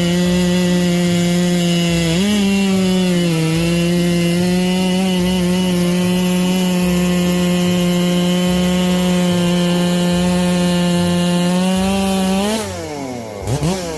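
Stihl MS 880 Magnum's 121.6 cc two-stroke engine running at full throttle through a cut, holding a steady high pitch with a brief dip about two to three seconds in. Near the end the pitch falls away as the saw comes off the throttle.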